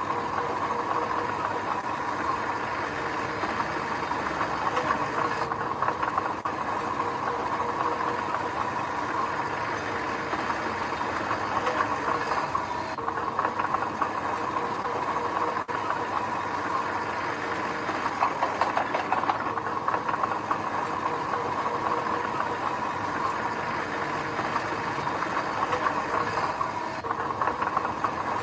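Engine of heavy construction machinery running steadily under work, a constant mechanical drone with a steady high tone in it.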